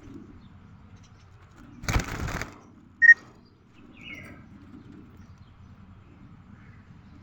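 Budgerigar giving a single short, sharp chirp about three seconds in and a fainter, falling chirp a second later. A half-second rustling burst comes just before them.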